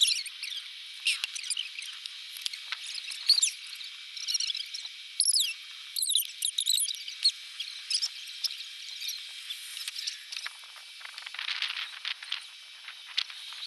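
Rapid, high-pitched squeaks and chirps from a field recording played back eight times fast along with the time-lapse picture, which makes the original sounds unrecognisable.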